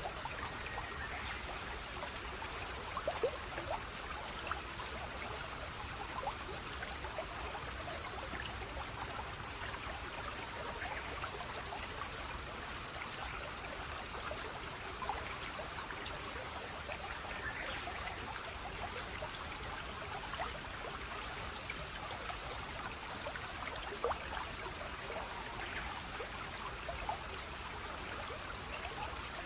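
Running water trickling and splashing steadily, like a small stream, with scattered louder droplet splashes.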